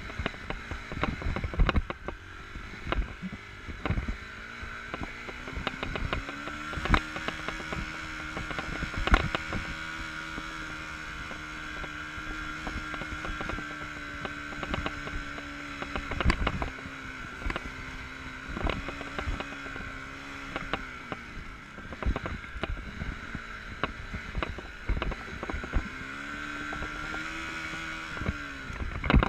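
Enduro motorcycle engine running as the bike is ridden off-road. The revs rise and fall several times, and frequent knocks and clatters come from the bike jolting over rough ground.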